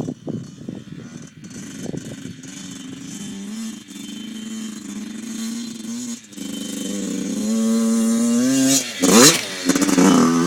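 Small dirt bike engine running, uneven at low revs at first, then climbing in pitch from about seven seconds in. About nine seconds in the pitch drops sharply and climbs back with a loud burst, then holds steady.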